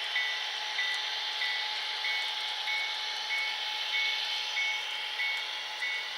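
A model railroad's electronic bell ringing at an even pace, about one and a half strokes a second, over a steady hiss, played through a small speaker with no bass. It is sound from an HO-scale sound-equipped train or layout.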